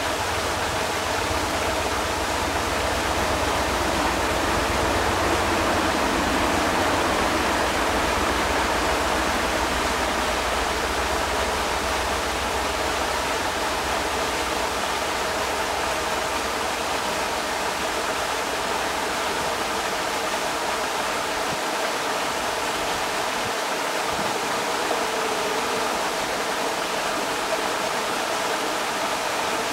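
Creek water rushing steadily, an even hiss, with a low rumble underneath that fades out about two-thirds of the way through.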